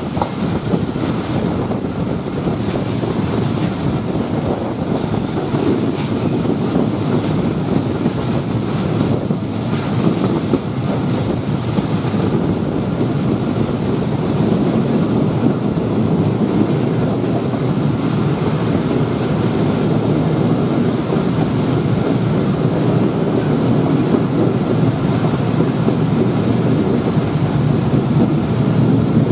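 Steady rumble of a moving train coach's wheels running on the track, heard from the coach's open side, with wind on the microphone.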